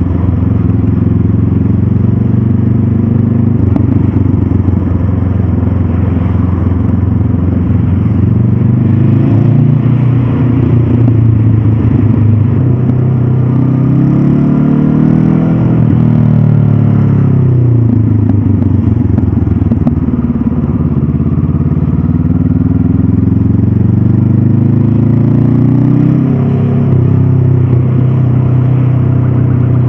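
Honda CB500F's stock parallel-twin engine pulling the bike along, its pitch climbing and falling as the rider opens and closes the throttle. It climbs steadily through the middle, drops back, then climbs again and falls off sharply a few seconds before the end, as at a gear change.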